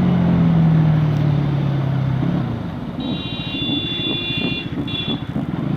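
Bajaj Pulsar NS200's single-cylinder engine running with the throttle easing off, its note sinking and fading about two seconds in, over wind and road noise. Then a vehicle horn sounds, one long blast and a short one.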